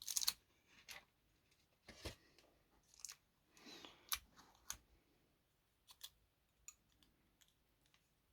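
Scissors snipping through tape, followed by a few light, scattered clicks and a brief rustle from handling the small plastic parts of a model locomotive.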